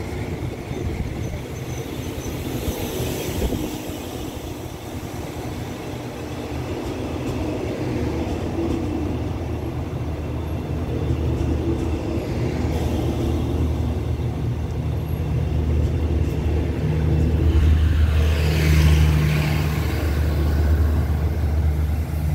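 Passenger train pulling out of the station, its coaches rolling past at gathering speed. The rumble builds with a steady low drone that is loudest near the end, as the last car goes by with a rush of hiss.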